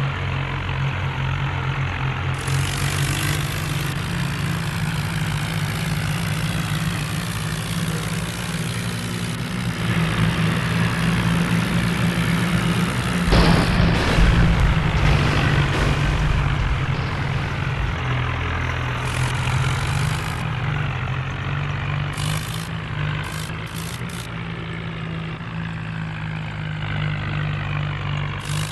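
Tractor diesel engine running steadily under power, growing louder for a few seconds near the middle before settling back.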